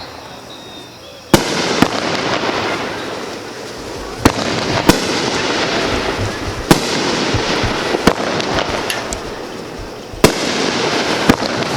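Consumer (Class C) fireworks going off in a show. Sharp bangs come at uneven intervals, about six in all, with a dense rush of crackling noise carrying on between them.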